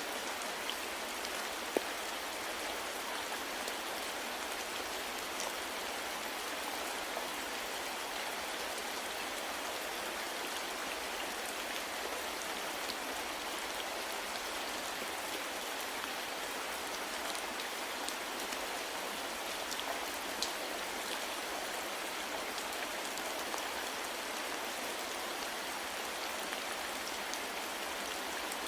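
Steady rain falling, an even hiss with scattered sharper drops ticking, one louder drop about two seconds in.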